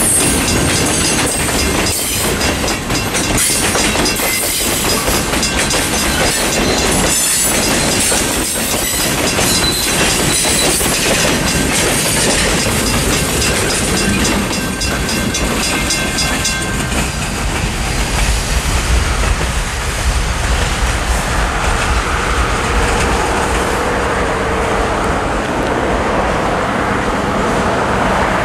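Freight train's gondola cars rolling through a level crossing, wheels clattering over the rails, while the crossing signal's Western Railroad Supply mechanical bell rings; the last car clears and the clatter and ringing stop about 16 seconds in. After that, a steady rumble of road traffic.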